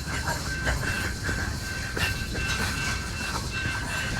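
BNSF freight cars rolling past on steel rails: a low rumble, irregular clicks and clanks from the wheels, and a thin, steady high squeal from wheels on the rail.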